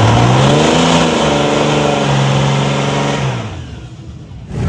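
A motorcycle engine revving as it accelerates, its pitch rising in steps, then fading away about three and a half seconds in.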